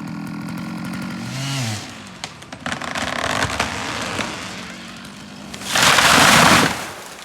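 Chainsaw running at idle, its pitch dipping briefly about a second in, then cracking and splintering wood as the cut tree gives way, and a loud crash lasting about a second near the end as the tree comes down.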